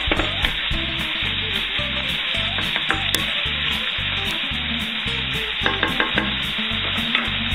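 Sliced mushrooms and garlic sizzling steadily in hot olive oil in a frying pan. A wooden spoon stirs them, scraping and tapping against the pan a few times.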